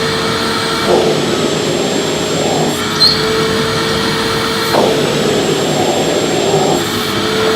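Electric vacuum cleaner running steadily with a constant motor whine, being pushed back and forth over the floor: a brief swell in the noise comes with each stroke, about every two seconds.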